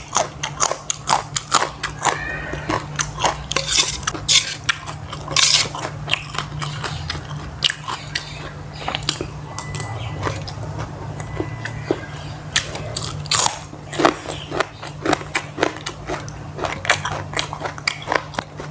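A person eating close to the microphone: wet chewing with many sharp, irregular crunches, as of crisp raw vegetables and food being bitten and chewed.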